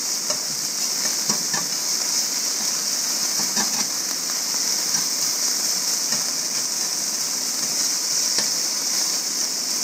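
Diced ham and green pepper frying in fat in a Griswold No. 8 cast iron skillet: a steady sizzle, with a few light scrapes and taps of a utensil stirring the food.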